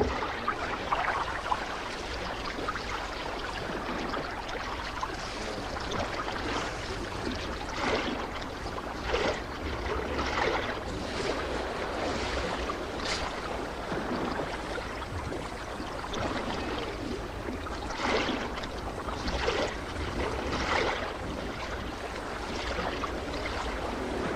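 Water sloshing and splashing as a crowd of hippos shifts about in a shallow muddy pool: a steady wash of water noise with several louder splashes, a cluster in the middle and more near the end.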